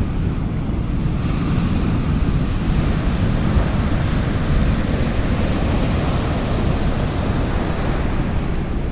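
Sea waves washing onto a beach, with a broad hiss of surf that swells and eases, over a low rumble of wind on the microphone.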